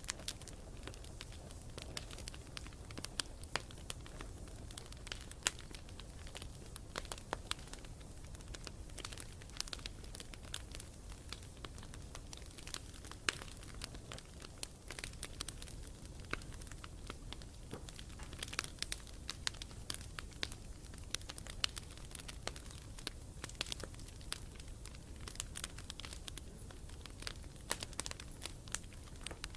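Campfire burning steadily, with frequent sharp, irregular crackles and pops from the wood over a low, steady rumble of the flames.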